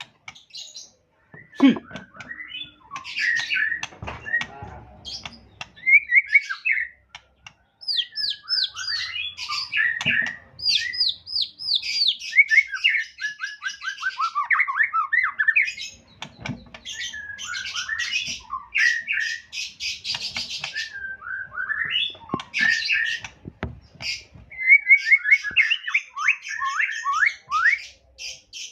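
White-rumped shama (murai batu) singing a long, varied song of clear whistles, falling slurred notes and fast, buzzy rattling phrases, with short pauses between bursts.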